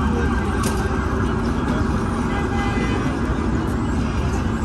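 City street traffic: a steady low rumble of passing vehicles, with a short click about a second in.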